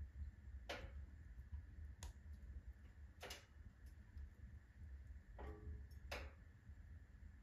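Firewood burning in a fully loaded wood-stove firebox, crackling faintly: five sharp pops, irregularly a second or so apart, over a low steady rumble.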